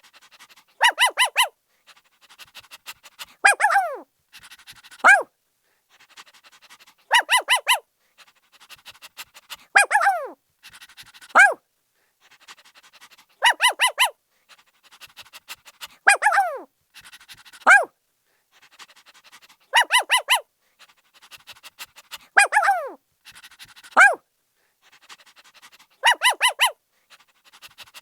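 Puppy barking in high-pitched yips: a quick run of four yips, then a yelp that slides down in pitch, then a single yip. The same pattern repeats about every six seconds.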